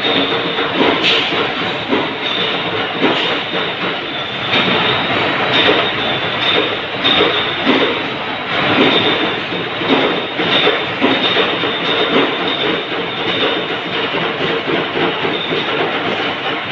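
Anchor-bolt threading machine running: a continuous, dense mechanical noise with irregular metallic clacks throughout.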